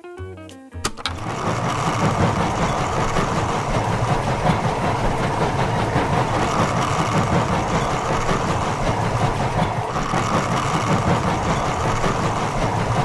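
A small motor starts about a second in and runs steadily, a dense, rapid mechanical rattle.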